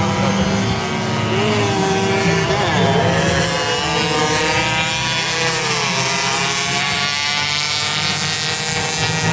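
Two-stroke 120cc racing motorcycle engines running continuously, with several engine notes gliding up and down in pitch.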